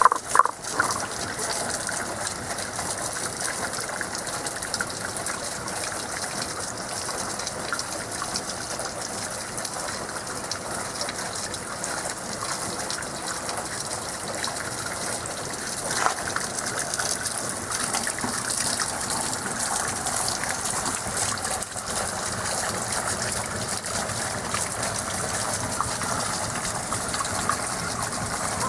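Spring water running steadily with an even rushing sound. A few short frog calls come at the very start.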